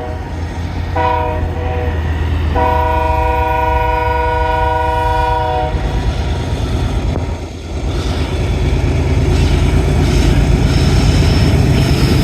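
Diesel freight locomotive's multi-chime air horn sounding a short blast and then a long one of about three seconds, the close of a grade-crossing signal. After the horn stops, the rumble of the passing train grows louder.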